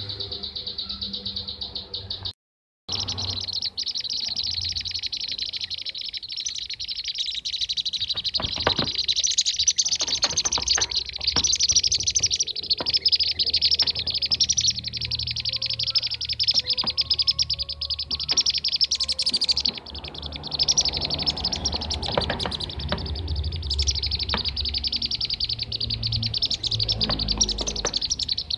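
A dense, continuous chorus of kirik-kirik (bee-eater) calls, rapid overlapping chirps and trills played as a bird-trapping lure recording. The sound drops out for a moment about two and a half seconds in, then carries on.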